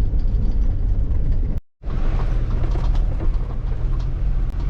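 Camper van driving on a rough dirt road, heard from inside the cabin: a steady low rumble of tyres and chassis with creaks and rattles. The sound cuts out completely for a moment about a second and a half in, then resumes the same.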